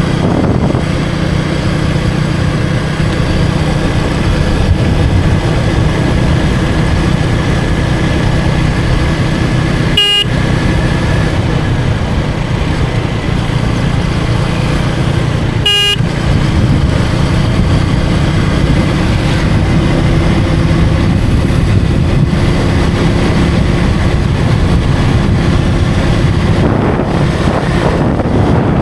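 KTM Duke 250 single-cylinder engine running steadily at cruising speed, with wind rushing past. Two short horn beeps cut through, about six seconds apart, around a third and halfway in.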